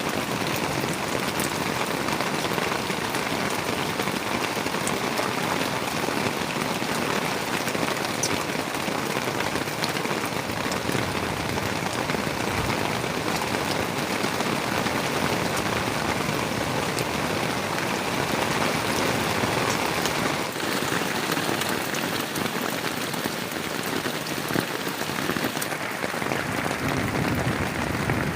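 Heavy rain falling steadily, with scattered tiny drop ticks.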